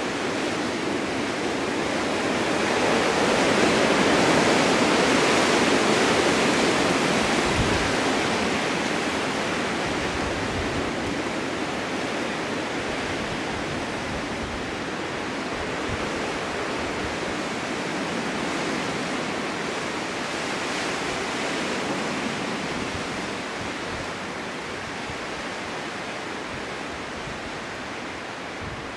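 Snowstorm wind blowing in a continuous rush, swelling into a gust a few seconds in and then slowly easing off.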